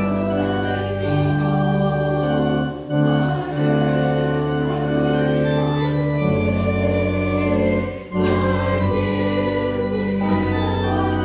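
Church organ playing slow, sustained chords that change every second or two, with brief breaks between phrases about three and eight seconds in.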